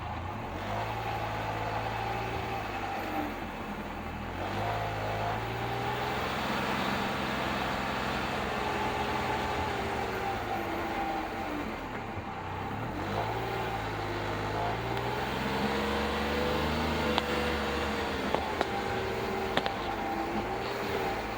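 2024 Polaris Ranger 1500 side-by-side engine running, its pitch rising and falling with the throttle, with a few sharp pops standing out, mostly near the end: the knock/popping noise the owner is trying to pin down.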